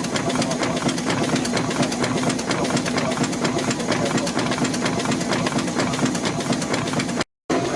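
Steam engine running steadily: a fast, even beat over a steady hum and hiss. The sound cuts out for a moment near the end.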